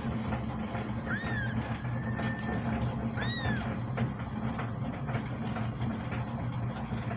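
Kitten meowing twice, short high mews that rise and fall in pitch, over a steady low hum.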